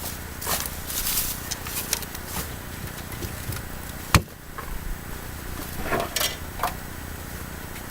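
Firewood being chopped by hand with an axe: one sharp strike about four seconds in, among scattered rustling and crackling of wood and branches being handled.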